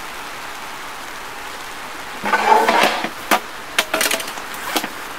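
Steady rain on the car, then a brief rustle and a few sharp knocks and clicks of things being handled.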